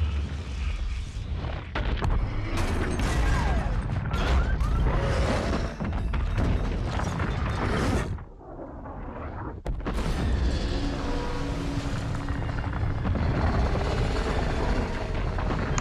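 Film soundtrack of explosions and deep booms over dramatic music, with a brief drop in level about eight seconds in.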